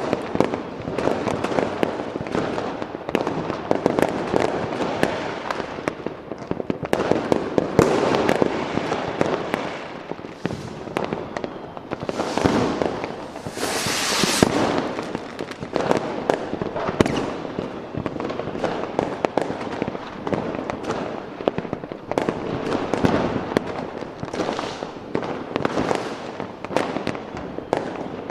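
Fireworks going off in a dense, continuous barrage of bangs and crackling pops, with a brief hissing burst about halfway through.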